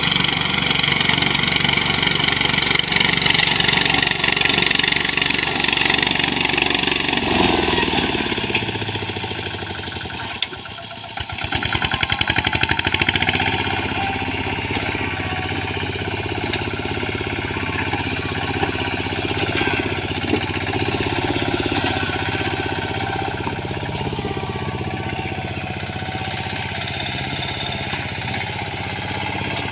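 Engine of a small wheat reaper-binder running steadily while the machine cuts. It dips briefly about ten seconds in, picks up again, then settles to a slightly quieter steady run.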